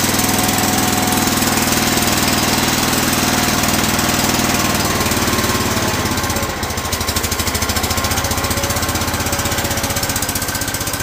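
Kohler K241 10 hp single-cylinder engine of a Cub Cadet 106 garden tractor running steadily, a few seconds after a cold start. About six and a half seconds in, the level dips briefly and the note shifts slightly.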